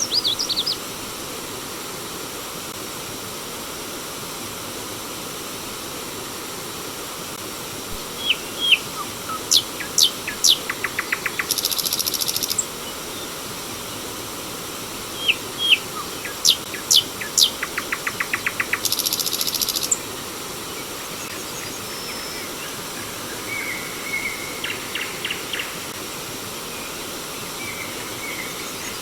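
Water running steadily over a stream with an even rushing sound, while a songbird sings the same phrase twice, several sharp sweeping whistled notes ending in a fast buzzy trill. Brief chirps open the stretch and softer repeated notes come near the end.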